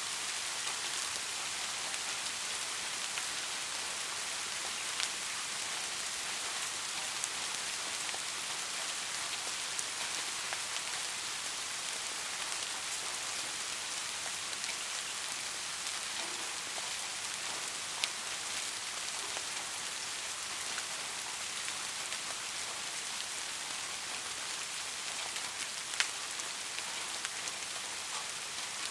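Steady rain falling, an even hiss with scattered louder drop ticks, two sharper ones about two-thirds of the way in and near the end.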